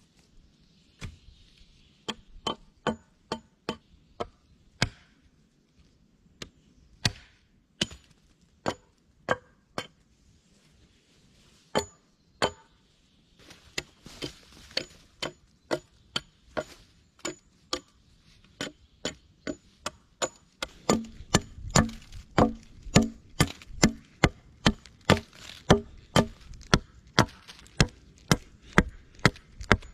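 A hand tool striking wood in a series of sharp, chopping strikes. They come irregularly at first, then settle to about two a second, and grow louder and heavier over the last third.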